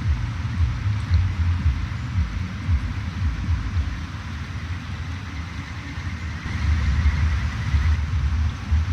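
A stream running with an even rushing hiss, under a gusty low rumble of wind buffeting the microphone.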